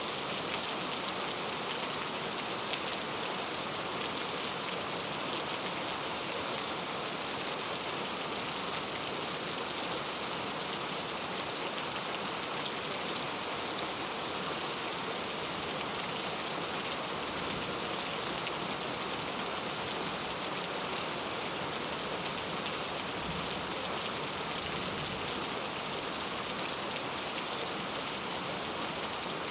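Steady rain falling, a continuous even hiss of drops with no thunder.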